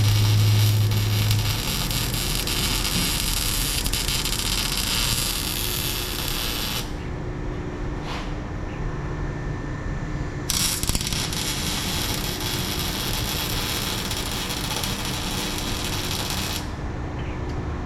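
Welding on a car's exhaust hanger: a steady, dense hiss for about seven seconds, a pause of a few seconds, then a second run of about six seconds.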